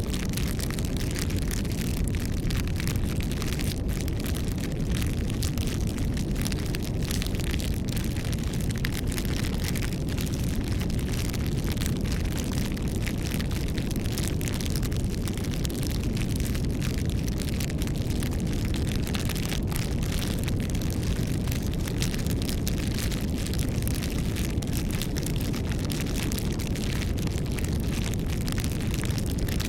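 Campfire burning: a steady low rush of flames with many small crackles and pops from the burning wood throughout.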